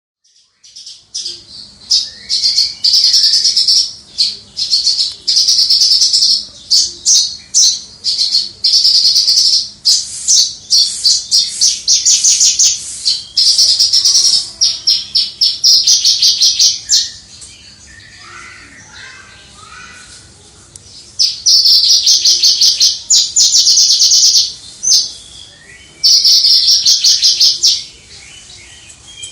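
Javan bush lark singing persistently: rapid, high trilled phrases lasting a second or two each, with short pauses between them. A quieter passage of lower notes comes about two-thirds of the way through.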